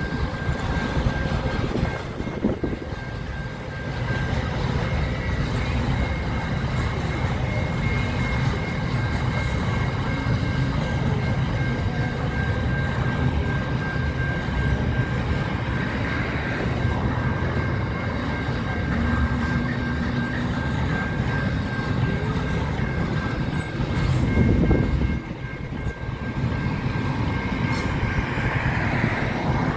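Long freight train of wagons rolling steadily past a level crossing, wheels running on the rails, with the crossing bell's steady high ringing over it. A brief louder rush of noise comes near the end.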